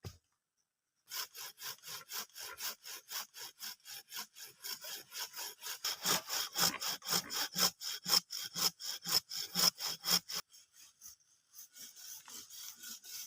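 Hand saw cutting through wood in steady back-and-forth strokes, about two to three a second, growing louder, stopping about ten seconds in, then going on more faintly near the end.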